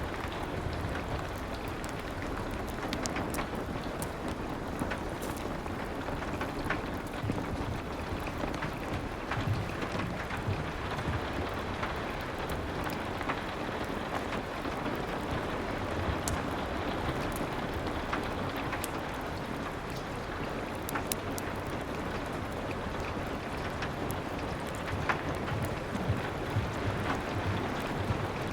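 Steady rain falling against a window, with sharp crackles and pops from a wood fire scattered through it.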